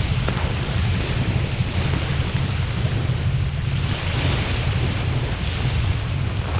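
Wood bonfire burning in a fire pit: a steady low rumble of flame and wind buffeting the microphone, with a few faint crackles. A thin high whine runs steadily over it.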